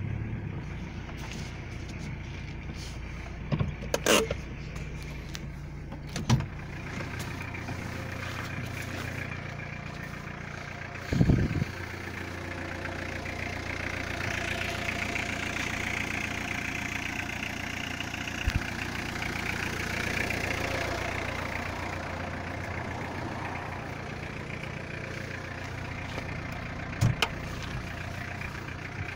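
Peugeot 106 1.4 diesel engine idling steadily, still cold after its first start in months. A few short knocks and clicks sound over it, with a deep thump about eleven seconds in.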